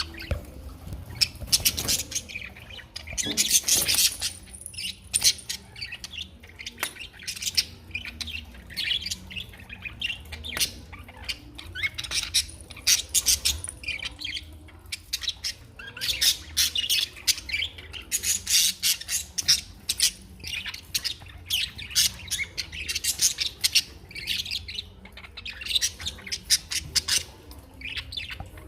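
Pet birds chirping and squawking almost without pause, many quick calls tumbling over one another.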